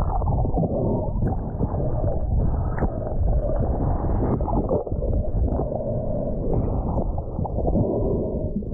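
Muffled water noise as heard through a submerged camera: water churning and sloshing with small knocks, all dull and cut off above the low-middle range. Near the end the camera comes out of the water.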